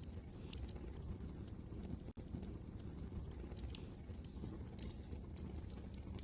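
Wood fire crackling, with irregular sharp pops and snaps over a steady low rumble of wind. The sound cuts out for an instant about two seconds in.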